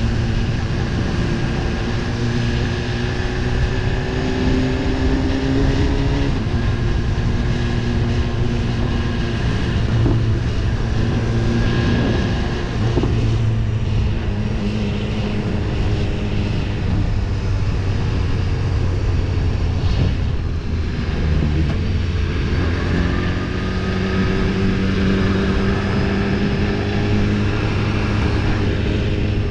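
BMW S1000RR inline-four engine running at moderate road speed, under wind rush. Its pitch climbs slowly over the first several seconds, shifts about halfway through and climbs again near the end.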